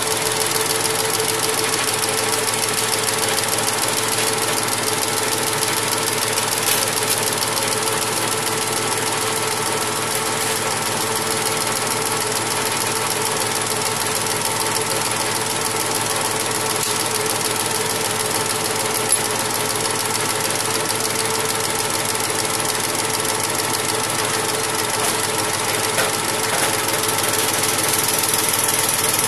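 Machinery running steadily with a fast, even knock and a few steady tones, unchanging throughout.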